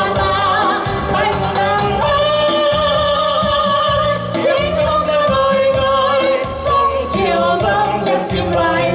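A singer holding long notes with vibrato, over instrumental backing music with a steady beat.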